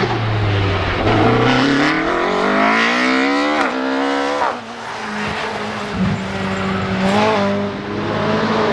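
Rally car engine revving hard, its pitch climbing for about four seconds and then dropping sharply as the driver lifts off. A steadier engine note follows, with another brief rise and fall near the end.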